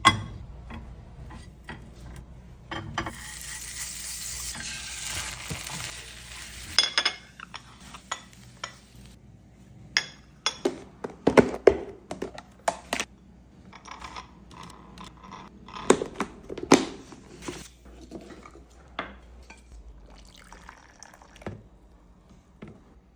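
Kitchen sounds: water pours or runs for a few seconds and stops abruptly, then come scattered knocks and clinks of dishes and glassware being handled.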